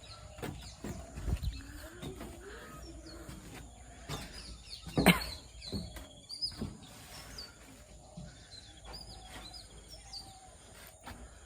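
Small birds chirping on and off over a low outdoor rumble, with one sharp knock about five seconds in and a couple of fainter knocks after it.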